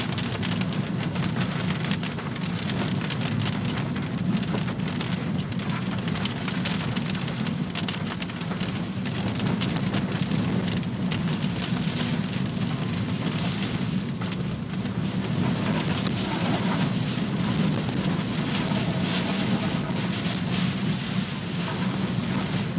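Heavy typhoon downpour, a steady dense patter of rain with many close drop hits.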